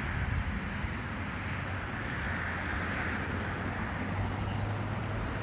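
Daihatsu Hijet kei truck running steadily: a constant low hum with an even noise over it.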